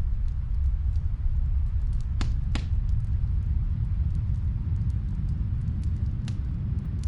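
Steady low rumble of snowstorm wind, with the sparse, sharp pops of a fireplace crackling over it; two louder pops come close together about two seconds in.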